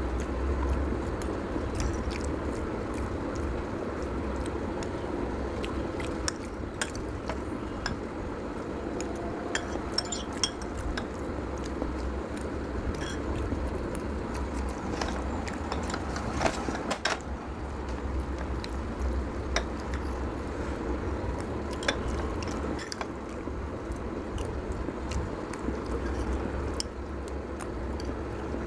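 Someone eating noodles: cutlery clinking against a plate and chewing, in scattered short clicks over a steady low rumble.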